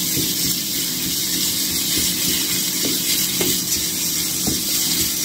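Diced salmon, onion and mushrooms sizzling steadily in a non-stick frying pan as they are stirred with a wooden spatula, with a few faint scrapes of the spatula against the pan.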